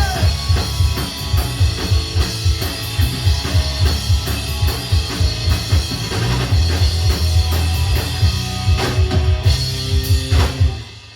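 Rock band playing live without vocals: pounding drum kit, bass and guitar, ending on a final hit that cuts off shortly before the end.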